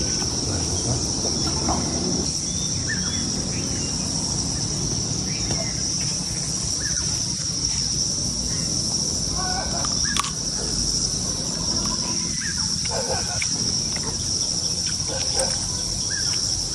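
Steady, high-pitched drone of insects calling without a break, with faint short bird chirps here and there.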